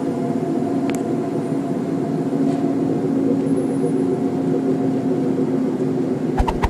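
Steady, low droning hum made of several held tones over a rushing haze, the so-called mysterious sky sound. The recorder first took it for an aircraft but found none overhead. A few sharp clicks near the end.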